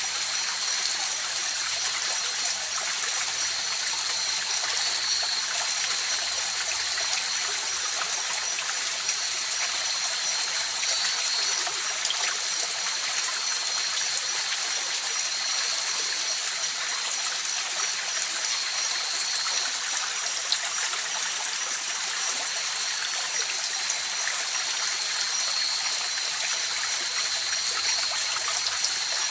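A stream running and babbling steadily over rocks, with a thin, steady high-pitched trill over the water noise.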